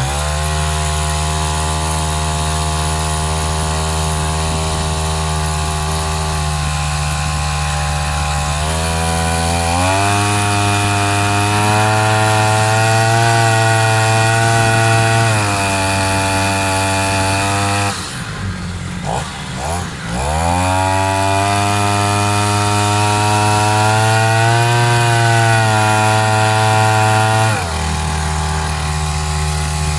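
Two-stroke brush-cutter engine with a 40 mm bore, driving a long-tail boat propeller, running under way. It runs steadily, revs up about ten seconds in, and eases off around fifteen seconds. It drops almost to idle for a couple of seconds near the middle, then revs up again and falls back to a lower speed near the end.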